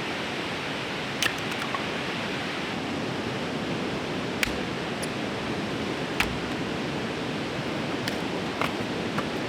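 Steady rush of a fast-flowing river, with scattered sharp ticks of the first raindrops landing, a second or more apart.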